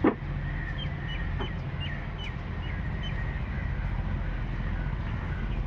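Old Ruston Hornsby diesel engine running with a steady low rumble, small birds chirping over it, and a sharp knock right at the start.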